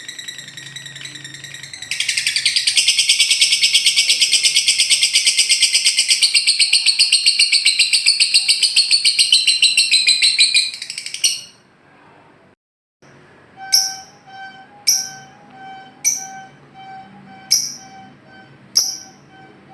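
Lovebird ngekek: a long, loud, rapid trilled chatter that runs for about nine seconds and stops suddenly. After a short break come six short sharp bird calls, about one a second.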